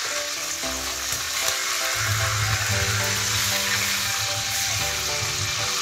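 Marinated chicken leg pieces frying in hot oil in a wok, a steady sizzle, while being turned with tongs. Background music with held notes plays under it.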